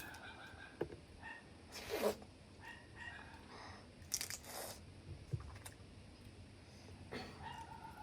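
Close-up eating of mud crab: two short crunching, tearing bursts, about two and four seconds in, with a few sharp clicks between.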